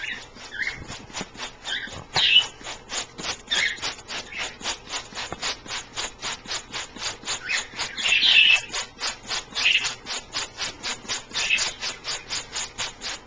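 A small pet bird splashing in a shallow dish of water, a fast even run of splashes about four or five a second, with high bird chirps now and then.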